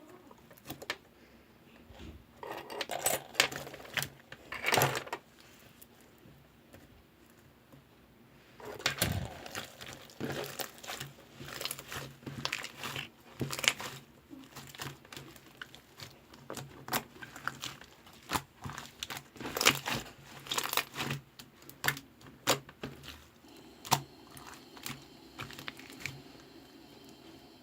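Slime being squished and pressed by hand: irregular clusters of wet clicks and crackles as air pockets pop, with a pause of a few seconds after the first handful.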